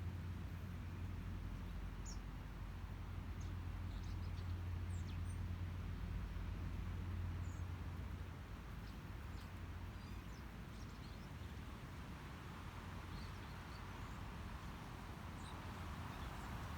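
Outdoor ambience: a steady low rumble with faint, scattered short bird chirps over it. The rumble eases about halfway through, and a soft hiss like wind rises near the end.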